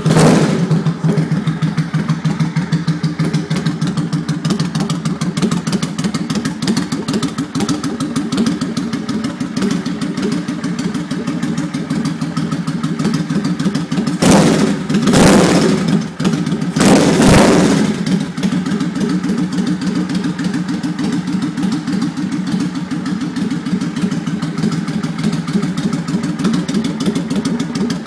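2002 Suzuki Volusia's 805 cc V-twin running on its new Vance and Hines exhaust, settling into a steady, pulsing idle just after starting. About halfway through it is revved twice in quick succession, then drops back to idle.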